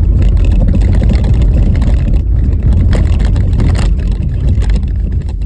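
Car driving on a rutted, bumpy snow-covered road: a steady low rumble of tyres and road noise, with a run of knocks and jolts from the uneven surface between about two and four seconds in.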